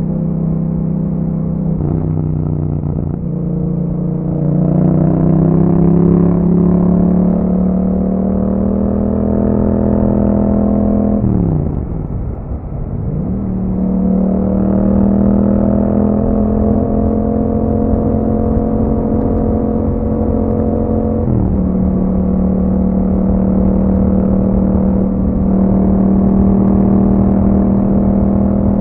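2021 Yamaha MT-07's parallel-twin engine running through an Akrapovic exhaust while riding. The engine note climbs slowly under throttle, drops sharply and comes back up about twelve seconds in, then holds steady with another brief dip a little past twenty seconds.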